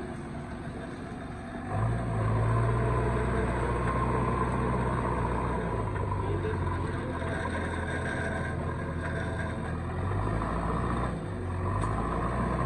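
Heavy diesel machinery engine running steadily, growing louder about two seconds in, with a brief dip and pick-up near the end.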